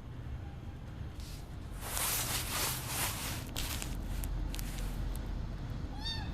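Rustling and handling noises with a few clicks, then near the end a single short, high kitten mew that rises and falls in pitch.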